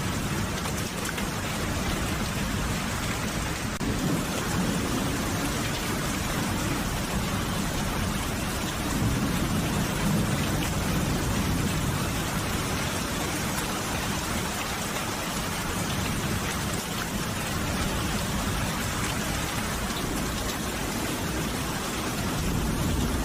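Steady rain falling, an even hiss of drops, with a low rumble underneath that swells about four seconds in and again around ten seconds.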